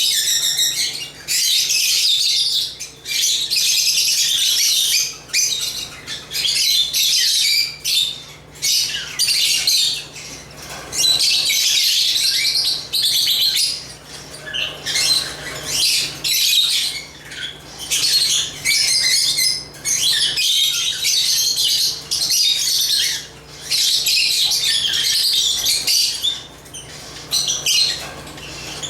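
African lovebirds chattering and chirping in rapid, high-pitched runs of a second or two with brief pauses between them.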